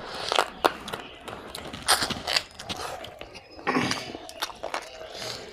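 Close-up eating sounds of rice and mutton curry eaten by hand: wet chewing with irregular sharp lip smacks and clicks.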